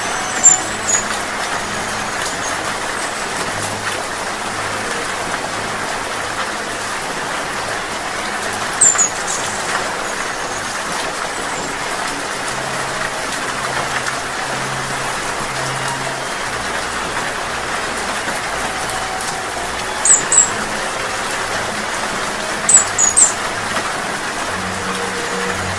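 Steady rain, with a hummingbird giving short, high-pitched chips in brief bursts four times over the rain.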